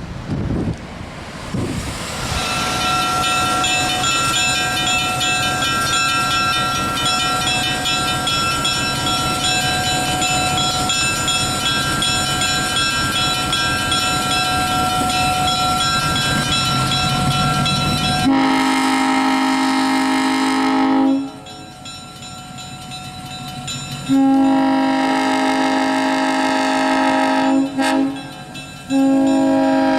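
A train running, then its horn sounds the grade-crossing signal: a long blast about two-thirds of the way in, a second long blast, a short one, and a final long one.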